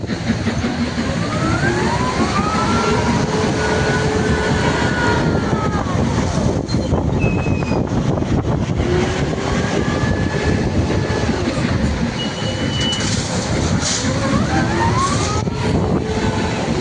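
Heavy truck diesel engine running under a loud, dense rumble, its pitch rising, holding and dropping again several times as it revs up and back down. A couple of brief high squeals come about halfway through.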